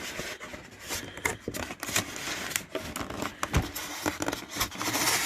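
Packaging being handled and pulled off a boxed dehumidifier: irregular rustling, crinkling and scraping with many small clicks and knocks.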